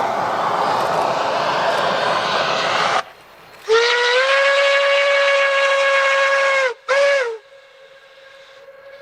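Steam locomotive: a loud rush of steam hiss for about three seconds, then the steam whistle sounds one long blast and one short blast. A faint steady tone lingers after them.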